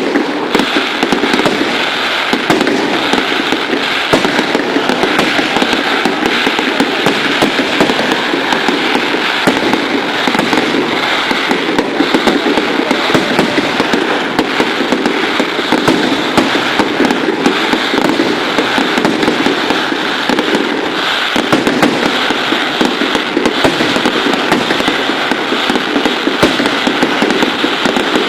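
Fireworks going off in a dense, continuous barrage of rapid crackling bangs.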